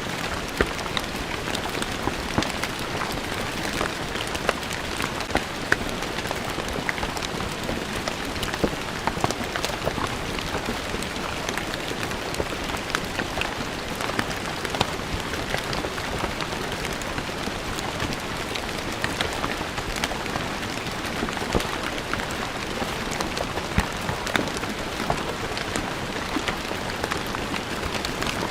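Steady rain falling on stone paving, a constant patter with many individual drops ticking sharply on the hard surface.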